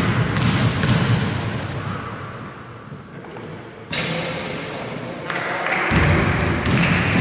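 Basketball thudding on an indoor court during play: a few sharp, irregularly spaced bounces and impacts that echo in a large hall, over steady court noise.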